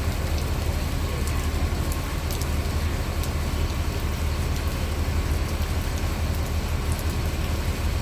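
Steady heavy rain and strong wind, with a low steady rumble underneath.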